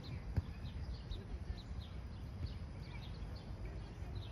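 Birds chirping repeatedly, short high calls a few times a second, over a steady low rumble of outdoor background noise. A single sharp tap about half a second in.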